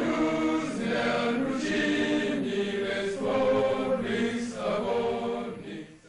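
Choral music: several voices singing held, chant-like notes that change pitch in steps, fading out near the end.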